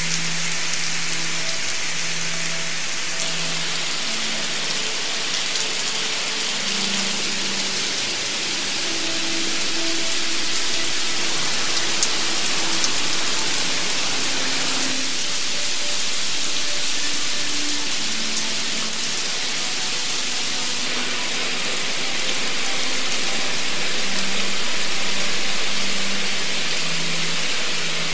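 Heavy rain pouring onto wet pavement and concrete, a steady loud hiss of drops that changes abruptly in tone a few times.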